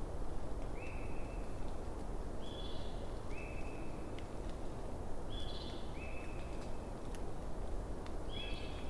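Campfire crackling steadily with an occasional sharp pop, while a night animal repeats short, high, clear calls, often a higher note followed by a lower one, every couple of seconds.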